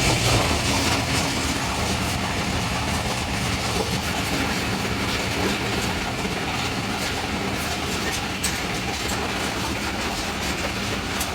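Passenger train running at speed, heard from on board: a steady rumble of wheels on the rails with clickety-clack and small clicks from the track, easing slightly in level.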